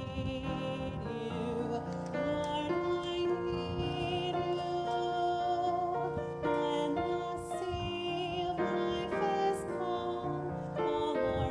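A woman singing a slow solo song with vibrato on long held notes, over instrumental accompaniment.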